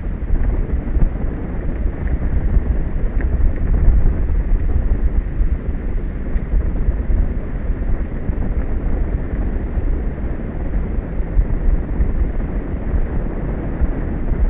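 Wind buffeting the microphone: a loud, deep rumble that swells and falls unevenly, with no other clear sound over it.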